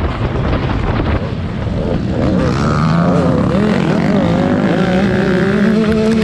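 Dirt-track racing motorcycles running on the track, their engines revving up and down as the riders work the throttle; from about two seconds in, several engine notes can be picked out wavering and climbing over one another.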